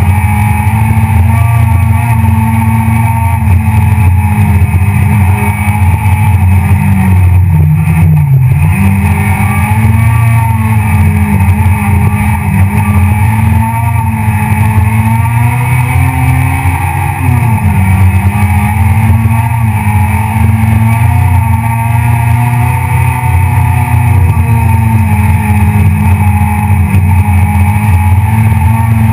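Citroën C2 R2 Max rally car's four-cylinder engine running hard at high revs, heard loud from inside the cockpit, its pitch dipping briefly and climbing again twice, about 8 and 17 seconds in.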